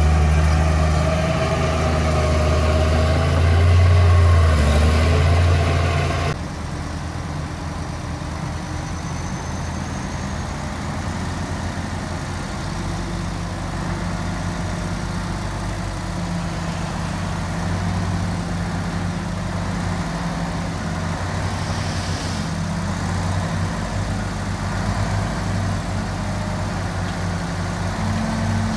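Heavy diesel engine of earthmoving machinery running steadily. About six seconds in, the sound changes abruptly to a quieter, even engine drone.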